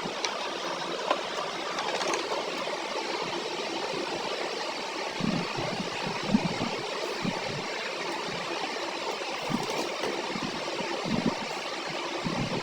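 Steady background hiss with a few faint clicks and short low sounds.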